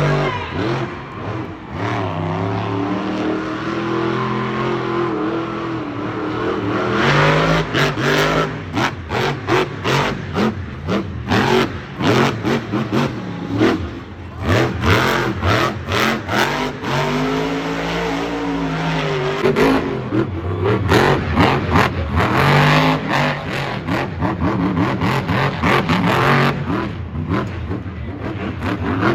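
Monster truck engine revving hard, its pitch climbing and falling repeatedly, with stretches of rapid choppy pulsing at full throttle.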